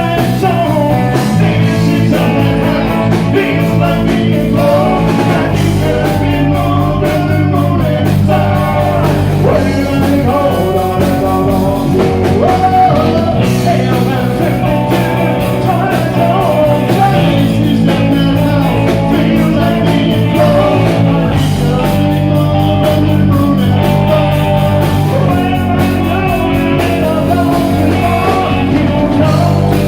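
Rock band playing live: guitar and bass chords with singing, the chords changing about every four seconds.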